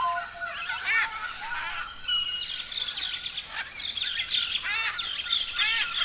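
A flock of parrots chirping and chattering, with many quick rising-and-falling calls overlapping. The chorus grows denser and higher about two seconds in.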